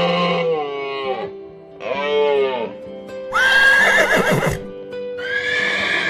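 Horse neighing and whinnying several times: two short calls, then a louder, wavering whinny that falls in pitch, then another long call, over background music.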